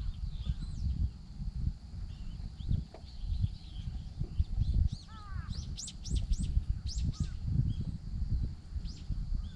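Birds calling: a quick run of high chirps about halfway through, with a lower falling call just before them, over a low, uneven rumble throughout.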